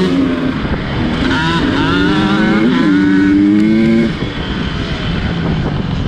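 GasGas 250 dirt bike engine under throttle, its pitch climbing and dipping as it pulls, then falling off about four seconds in as the throttle is rolled off.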